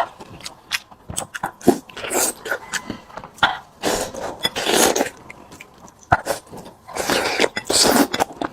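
A person biting and chewing braised pork, with irregular clicks and short noisy bursts of chewing.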